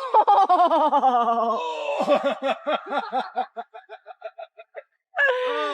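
A person laughing hard: a long, high, wavering laugh that breaks into rapid ha-ha pulses, about four a second, which fade away. A fresh burst of laughter comes near the end.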